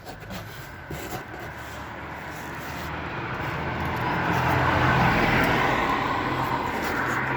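A motor vehicle driving past, its engine and tyre noise growing steadily louder to a peak about five seconds in, then easing off a little.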